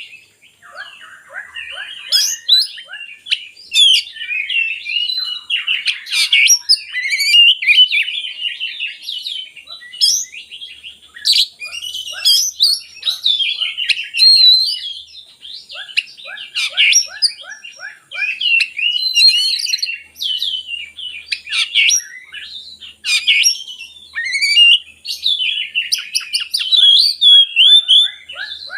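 Oriental magpie-robin (kacer) singing a continuous, varied song of quick chirps, whistles and trills, with short runs of rapid ticking notes mixed in.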